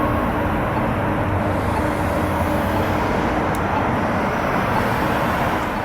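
Steady street traffic noise from passing vehicles, fading out near the end.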